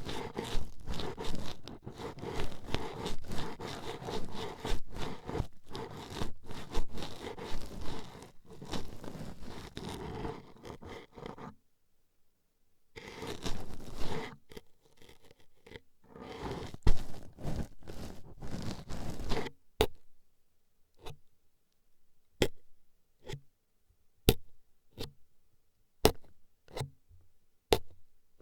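Toothpicks scraping and jabbing at an ASMR microphone's ear as a dense, rapid scratching. The scratching stops briefly a little before halfway, comes back, and in the last third gives way to single sharp pokes, about one a second.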